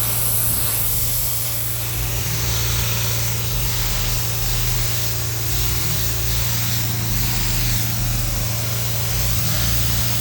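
Pressure-washing equipment running steadily with a constant low hum, and water spraying as an even hiss over it.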